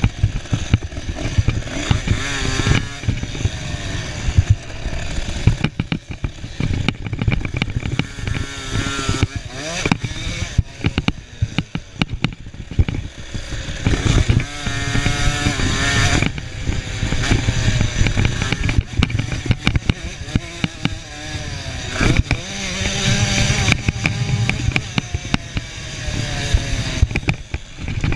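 50 cc two-stroke motocross bikes racing, their engines revving up and down in pitch, with frequent sharp knocks.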